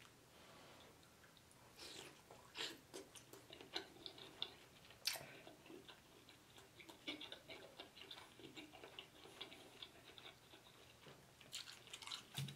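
Faint, close-up chewing of tender lobster meat: wet mouth clicks, starting about two seconds in.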